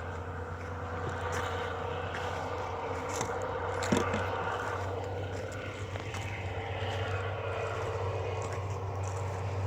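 Tractor engine running steadily, with one sharp knock about four seconds in.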